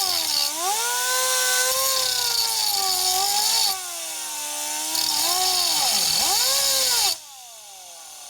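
Pneumatic cut-off tool (air grinder) running and cutting a slot into the head of a tamper-proof security bolt, with a harsh grinding hiss. The tool's whine dips and wavers in pitch as the wheel bites into the metal. About seven seconds in, the cutting stops and the whine winds down.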